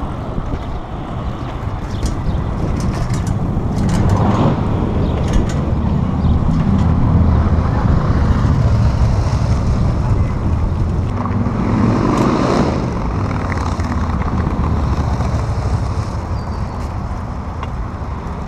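Road traffic passing close to a moving bicycle: a steady rumble of cars and trucks, with vehicles going by about four seconds in and again around twelve seconds in.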